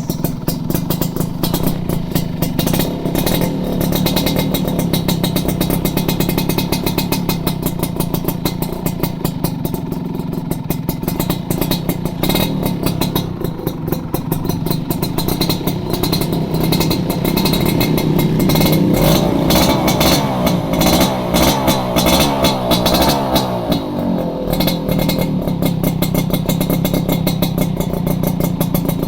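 Yamaha F1ZR two-stroke engine running through a CSR underbelly racing exhaust, with a fast, steady popping exhaust note. About two-thirds of the way through, the revs rise and fall a few times before it settles back.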